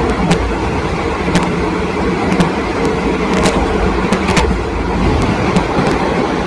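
SRT Royal Blossom train running: a steady rumble with a low hum, broken by irregular sharp clicks.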